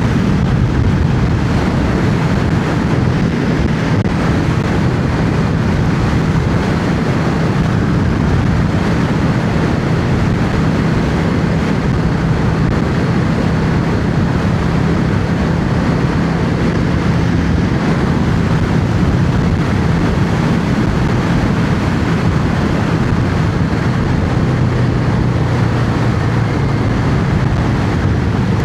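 Yamaha XVS650's air-cooled V-twin engine running at a steady cruising speed, with wind rushing over the microphone.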